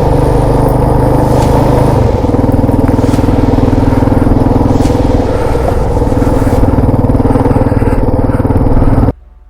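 Motorcycle engine running steadily while riding a dirt trail; its note shifts about two seconds in, and the sound cuts off suddenly near the end.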